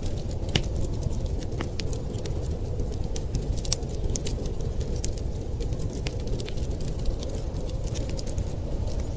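Wood fire crackling with frequent irregular sharp pops over a steady low rumble.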